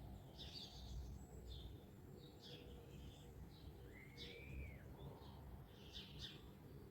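Faint birdsong: scattered short high chirps, with one arched whistled note about four seconds in, over a steady low rumble.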